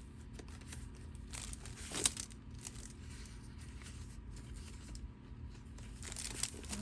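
Paper journal cards and ephemera rustling and shuffling as they are handled and sorted through by hand, in short irregular bursts, with the loudest rustle about two seconds in.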